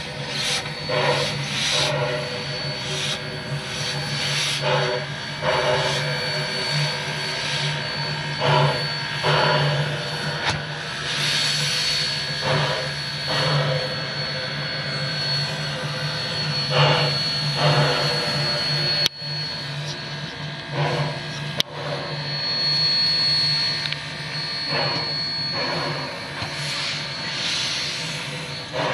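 Queensland Railways C17 class steam locomotive giving off a steady roar of steam with a high hiss, rising in uneven surges. Two sharp clicks come about two-thirds of the way through.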